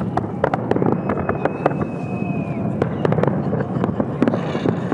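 Fireworks display: rapid crackling and popping of bursting shells over a steady low rumble. A high whistle is held from about one second in and dips in pitch as it ends.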